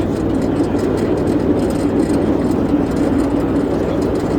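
A ride-on 7.5-inch gauge miniature train running along the track, a steady rumble of the train on the move with no pauses or changes.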